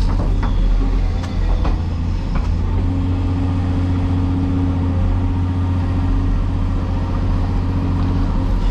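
Caterpillar 336E hydraulic excavator's six-cylinder diesel engine running steadily at work, with a few sharp knocks in the first couple of seconds. A steady low tone joins the engine hum about two and a half seconds in.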